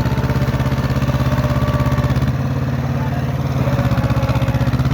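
Tractor engine running steadily with a fast, even chugging beat; its tone shifts slightly about halfway through.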